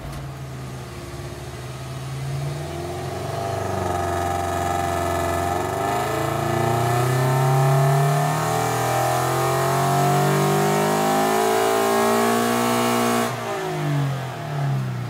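Subaru BRZ's 2.0-litre flat-four boxer engine, fitted with headers and exhaust and a fresh tune, making a wide-open-throttle run under load on a hub dyno. The revs climb steadily for about thirteen seconds. Then the throttle shuts suddenly and the revs fall away.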